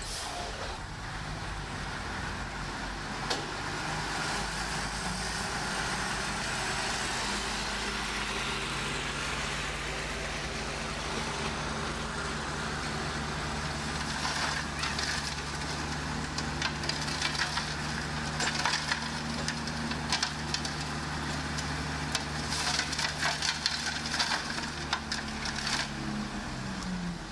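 Heavy diesel earthmoving machine's engine running steadily, with irregular clanks and rattles from about halfway that become busier near the end. The engine note rises just before the end.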